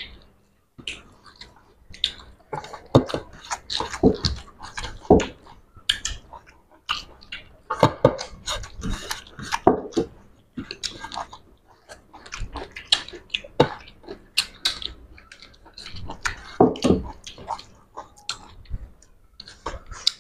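Close-miked chewing and wet mouth smacks of people eating, an irregular run of small clicks and squelches.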